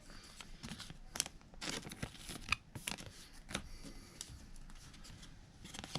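Trading cards and foil pack wrappers being handled: light crinkling and rustling with short clicks and snaps, busiest in the first three seconds and quieter after.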